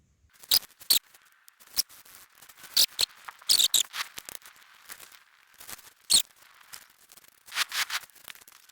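Small sticks and kindling being snapped and piled onto a small, struggling campfire: a dozen or so irregular sharp cracks with scraping and rustling between them.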